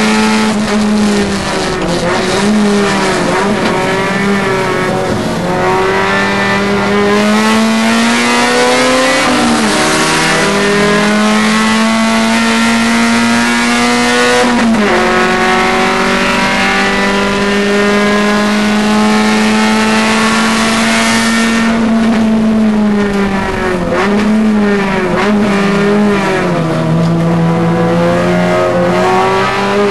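Nissan Sentra SE-R's VVL four-cylinder race engine heard from inside the cabin, running hard at high revs. Its pitch drops sharply at a few gear changes and holds high along the straight. About three-quarters in, the revs fall with several quick dips and blips, then climb again near the end.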